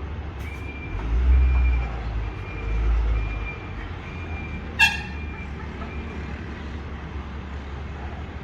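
A truck's reverse alarm beeping at a steady high pitch about every three-quarters of a second, stopping about six seconds in, over the truck's engine rumble, which swells twice early on. A short, sharp, loud toot or squeal cuts in a little before the five-second mark.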